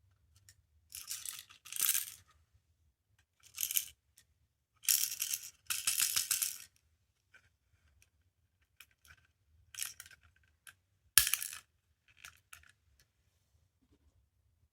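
Small hard plastic pieces rattling and clicking in several separate bursts as they are handled, with one sharp click about eleven seconds in.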